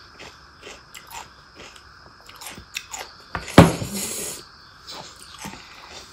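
Close-miked chewing of a mouthful of pork curry and rice: a run of small wet mouth clicks and smacks, with one louder mouth sound about three and a half seconds in.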